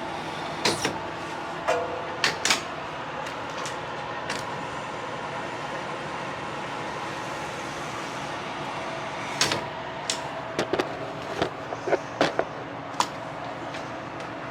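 Semi truck idling with a steady hum, broken by a dozen or so short clicks and knocks scattered through.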